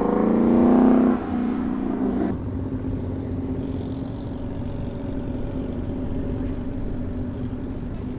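Car engine revving, its pitch climbing and then dropping suddenly about a second in, then settling to a steady, lower running note.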